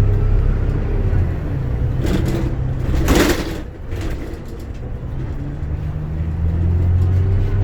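Bus engine running while the bus drives, heard from inside the passenger cabin as a steady low hum. About three seconds in, a short loud hiss rises over it.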